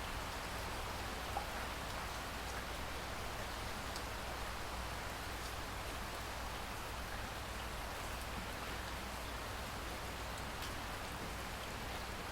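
Steady rain falling in a rainforest, an even hiss with a few faint individual drop ticks.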